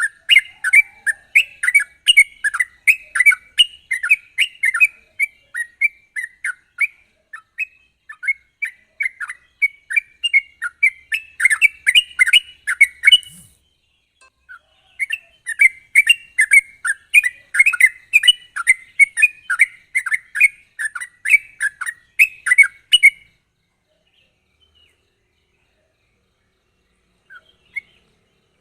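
Yellow-vented bulbul (trucukan) singing in fast, sharp runs of chirping notes, with a short break about halfway. The song stops a few seconds before the end, leaving only a couple of faint chirps.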